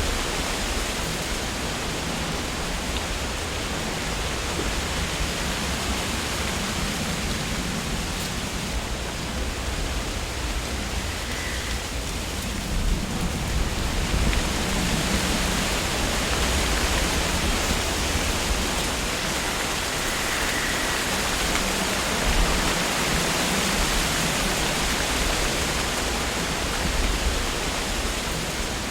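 Wind rustling through tree leaves in a continuous rush that swells a little in gusts, picking up about halfway through.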